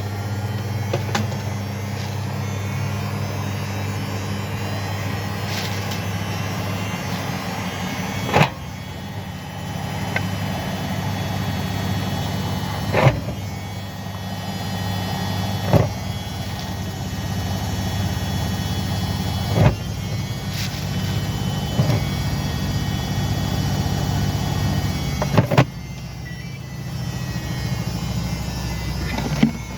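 Washing machine running with a steady electric motor hum, broken by about six sharp knocks spaced a few seconds apart.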